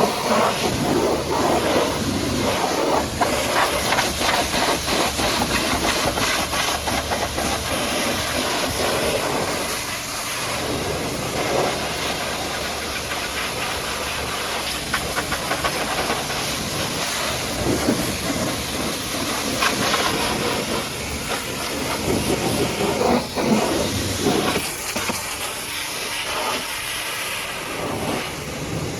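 High-pressure water jet from a pressure washer spraying a muddy truck: a loud, steady hiss of spray whose loudness wavers throughout.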